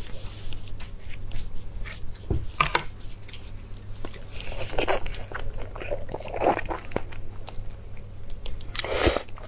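Close-miked biting and chewing of a soft, sauce-soaked blood sausage: wet squishing mouth sounds with many small clicks, louder at a few moments.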